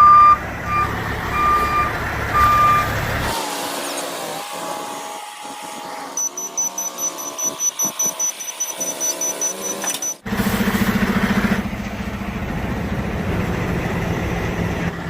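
A truck's reversing alarm beeping about four times over engine rumble. After an abrupt change to a few seconds of wavering pitched tones, a truck engine runs steadily.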